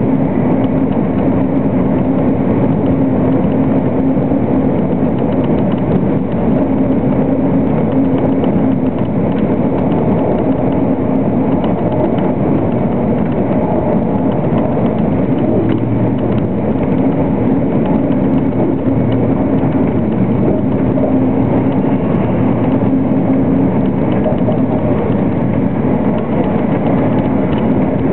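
Steady running noise of an ICE 3 high-speed train at speed, heard inside the passenger car: a constant rush and rumble of wheels on rail and air, with a low hum that swells and fades.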